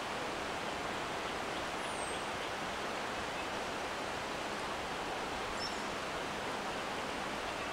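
Creek water rushing steadily, with a few faint high chirps about two seconds in and again past the middle.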